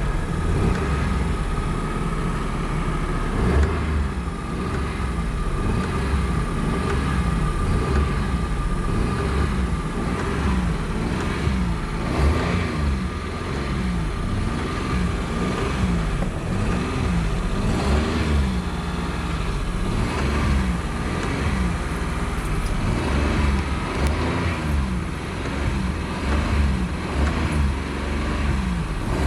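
Car engine being revved up and down over and over. From about ten seconds in, the engine note rises and falls in a steady rhythm about once a second.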